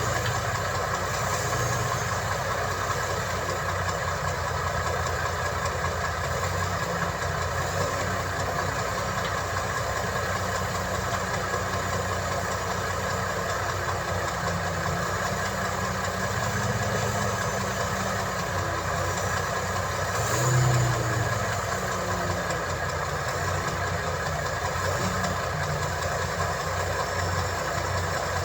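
Diesel engine of heavy earthmoving machinery running steadily, with a brief louder swell and a click about twenty seconds in.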